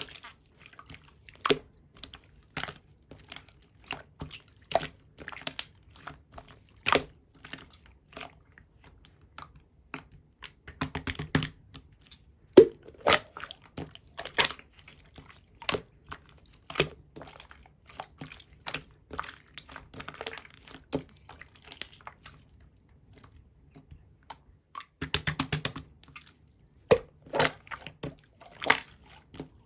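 Clear slime being squished and pressed by hand, giving sharp wet pops and clicks as trapped air bubbles burst. Quick runs of crackling pops come twice, about eleven seconds in and again near the end.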